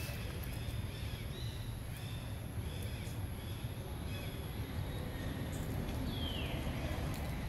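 Forest ambience: faint short bird chirps at intervals, then a clear whistled call falling in pitch near the end, over a steady low rumble.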